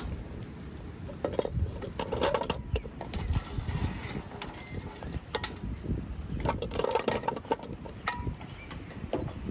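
Irregular knocks, clicks and light clinks of hands working a bowl of filling and utensils, over a steady low rumble.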